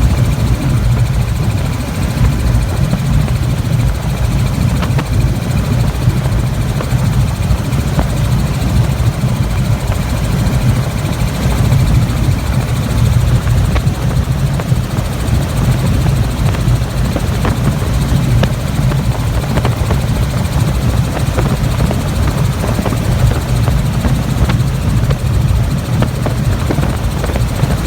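Helicopter running: a steady, loud, low rotor and engine noise that does not change.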